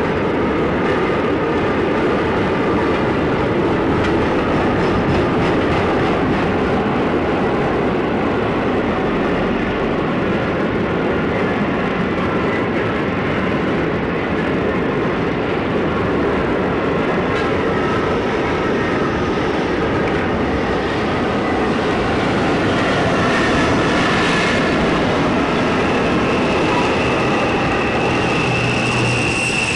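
Recording of a passing train: a steady, even rolling noise throughout, with a high steady tone coming in near the end.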